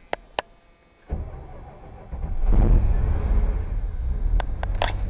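1986 Dodge Ram W250's 318 V8 cold-starting after a month of sitting in freezing weather: two clicks, then about a second in the starter cranks, the engine catches with a rev about halfway through and settles into a steady idle.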